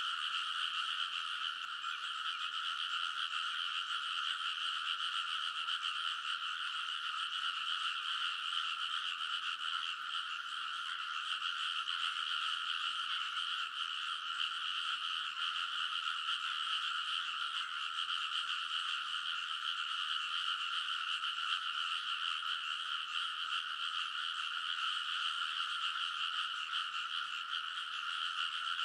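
A large chorus of frogs in a rice paddy, many calling at once in a dense, unbroken din. It is steady, with a lower and a higher band of pitch and no pauses.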